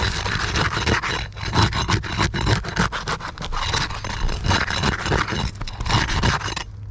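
Low-profile flat bar working under asphalt shingles, scraping and prying to break the tar sealant strip loose: repeated irregular scraping with sharp crackles as the seal lets go.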